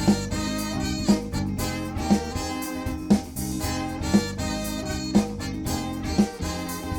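Live soul band playing an instrumental passage with a steady beat, a loud drum accent about once a second under sustained chords.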